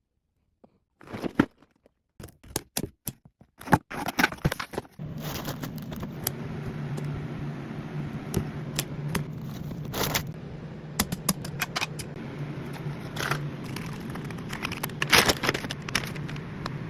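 Loose plastic Lego pieces rattling and clicking as they are handled and sorted, with crinkling and scraping among them. A steady low hum joins about five seconds in.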